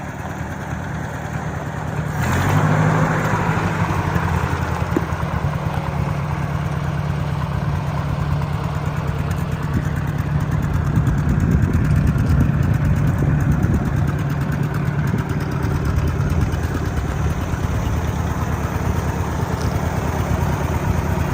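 Ford 4000 tractor engine running steadily, growing louder about two seconds in and holding that level.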